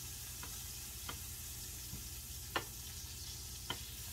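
Pepperoni slices and raspberries frying in a pan, a steady sizzle with a few sharp pops, the loudest about two and a half seconds in and again near the end.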